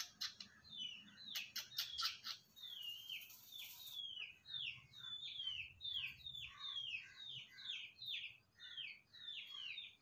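A small bird chirping over and over, each note short and falling in pitch, about two to three a second. A few sharp clicks come in the first two seconds.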